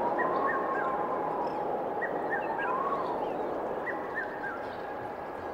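Birds chirping: a short descending run of chirps repeated about every two seconds, over a steady tone that rises and falls twice.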